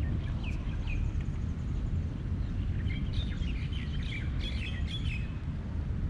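Small birds chirping: a couple of short chirps about half a second in, then a busier run of chirps from about three to five seconds, over a steady low rumble.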